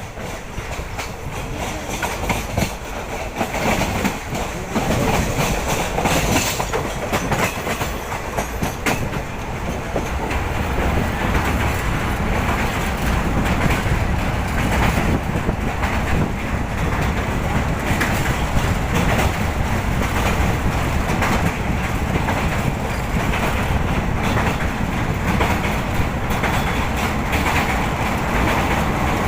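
The Deccan Queen express running along the track, heard on board: a steady rumble of the coach with the clickety-clack of wheels over rail joints, a little louder from about ten seconds in.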